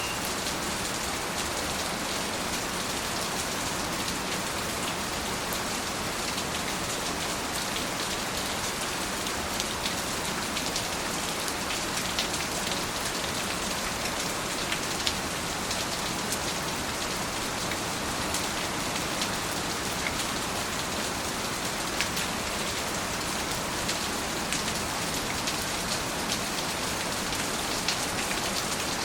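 Steady rain falling, an even hiss with scattered sharper drop ticks on top.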